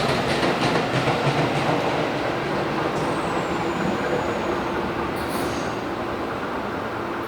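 Tokyo Metro 10000 series electric train pulling out and picking up speed, its wheels clicking over rail joints under a steady running rumble. About three seconds in, a thin wheel squeal falls in pitch, and the train eases off slightly in loudness toward the end.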